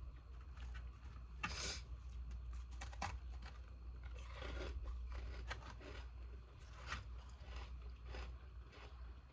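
Ice being bitten and crunched between the teeth, pieces of freezer ice from humidifier tops, with irregular sharp cracks, the loudest about one and a half seconds in.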